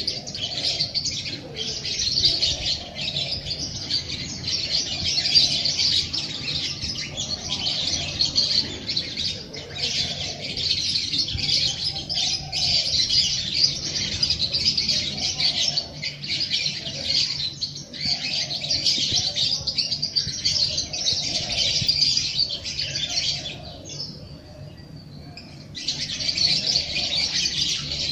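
Dense, continuous chirping and twittering of many small birds, which drops out for about two seconds near the end before starting again.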